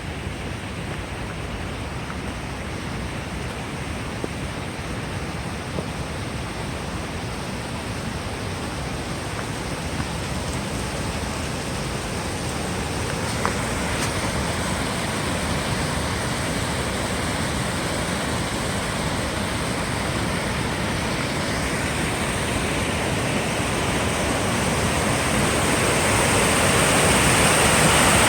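Steady rush of falling water from a waterfall, growing gradually louder, most of all over the last few seconds.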